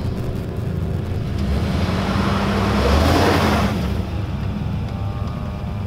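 V8 engine of a two-wheel-drive U-Haul truck running under throttle as it tries to drive out of deep sand where it is stuck. A rush of noise swells about two seconds in and dies down after about three and a half.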